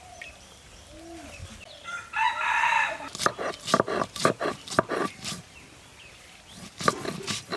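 A rooster crows once, about two seconds in, a single call of under a second. It is followed by quick runs of short, sharp sounds.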